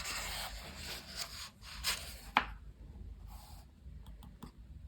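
Colouring book pages being turned by hand: a paper swish and rustle over the first second, another about two seconds in ending in a sharp tap, then fainter rustling.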